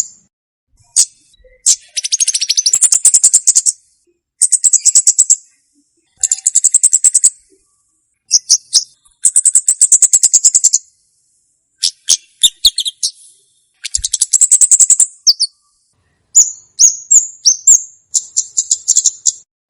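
Recorded song of the komade bird, played as a lure and tutor track: loud, high, rapid trilled phrases about a second long, repeated with short gaps between them and mixed with sharp single chirps.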